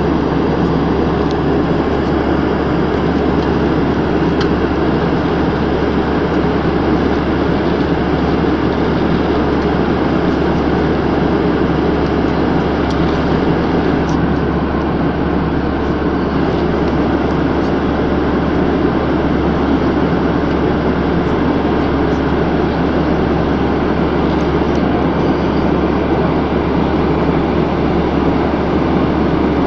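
Airplane in flight heard from inside the passenger cabin: a loud, steady rumble of engines and rushing air that does not change in pitch or level.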